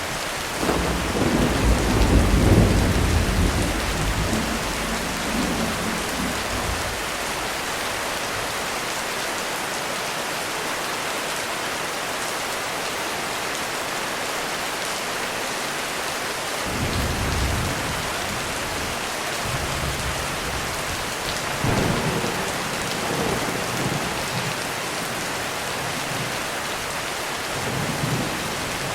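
Heavy rain hissing steadily on a roof. Thunder rolls in about half a second in as a long rumble lasting several seconds, then rumbles again more briefly, and more faintly, around the middle and near the end.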